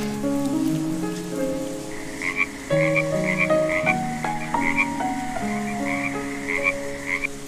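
Frogs croaking in a quick repeated call, about three calls a second, starting about two seconds in, over soft music with held notes.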